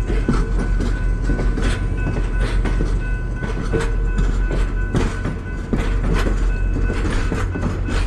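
VIA Rail diesel-hauled passenger train moving slowly over the tracks: a steady deep engine rumble with irregular clicks and clanks of wheels passing over rail joints and switches.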